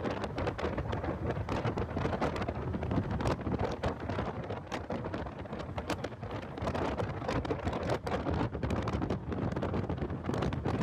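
Heavy wind noise buffeting the microphone of a car driven at track speed: a dense, steady rumble with constant crackling that buries the car's engine and tyres.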